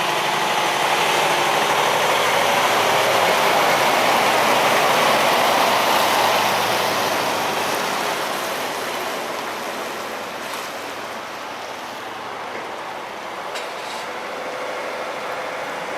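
A large vehicle passing by: a steady rush of running noise that swells over the first few seconds and then slowly fades.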